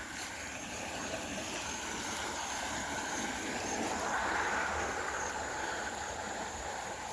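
Steady rush of a flooded creek's running water, swelling slightly about halfway through.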